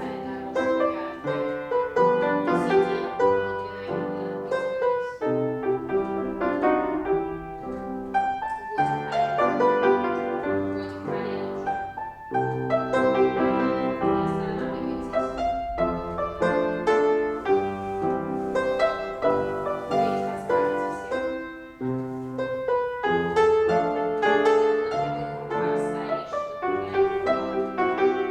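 Piano playing classical-style music in a run of chords with a regular pulse, accompanying ballet class exercises.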